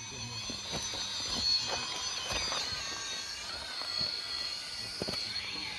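Traxxas TRX-4 Sport RC crawler's electric motor and drivetrain whining at a high pitch as it crawls slowly, with a few light clicks and knocks of the truck against rock.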